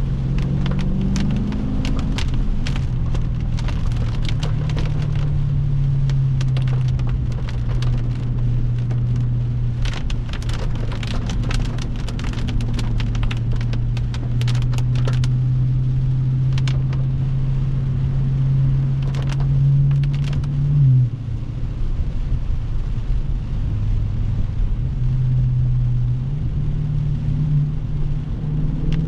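Dodge Scat Pack's 392 HEMI 6.4-litre V8 running at steady cruising revs while driving in heavy rain, with many sharp ticks of raindrops hitting the car. About twenty seconds in, the revs climb briefly and then drop sharply, and they pick up again a few seconds later.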